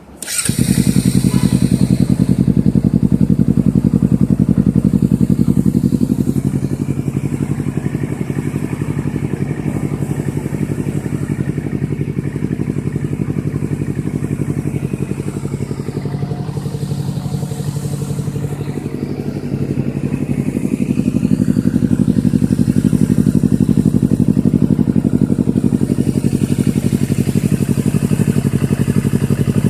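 Motorcycle engine breathing through an aftermarket stainless-steel exhaust with a semi-cacing (coiled) header, catching right at the start and then idling with an even beat. It is softer through the middle and louder again in the last third.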